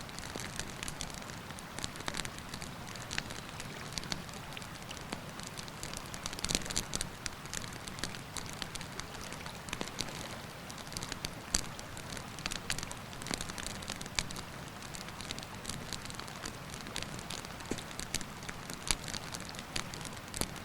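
Wood campfire crackling, with sharp pops at irregular intervals, over the steady rush of a river.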